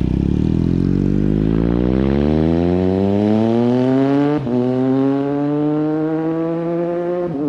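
Triumph Daytona Moto2's inline-triple engine, its muffler replaced by a link pipe, accelerating hard with the pitch climbing steadily. A quick upshift breaks the climb about four and a half seconds in, and another comes near the end.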